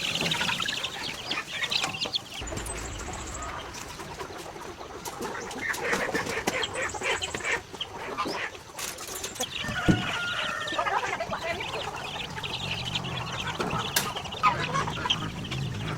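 Chickens clucking on and off, with a sharp knock about ten seconds in.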